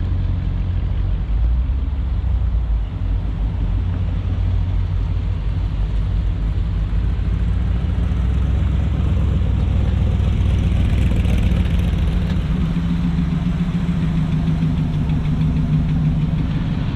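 Car engines running at low speed, a steady low rumble; a somewhat higher engine note comes up past the middle and fades near the end.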